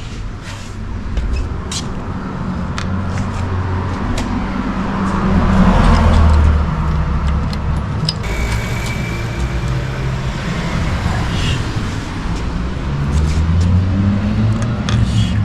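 A motor vehicle engine running, its low drone swelling and falling in pitch, with scattered small clicks.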